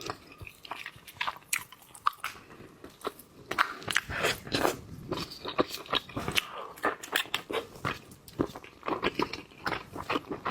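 Close-miked eating sounds: chewing and crunching of food in the mouth, a dense run of irregular clicks and crackles.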